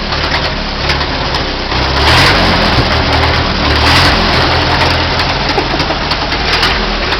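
1929 Ford Model A truck's four-cylinder Ford Model B engine running, swelling louder briefly about two seconds in and again about four seconds in.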